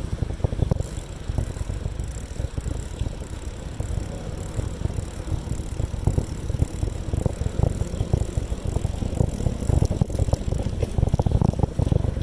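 Riding a bicycle: wind buffeting the microphone, with a steady low rumble and irregular knocks and rattles from the ride.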